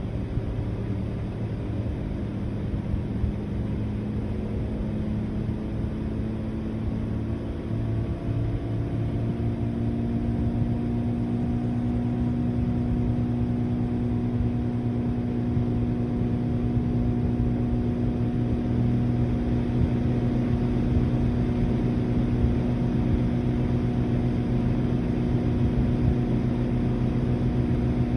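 Outdoor unit of a Mitsubishi Heavy Industries Beaver SRK56TX2 air conditioner running: a steady compressor and fan hum with several tones. About ten seconds in, the tones rise in pitch and the hum grows a little louder as the compressor speeds up after start-up.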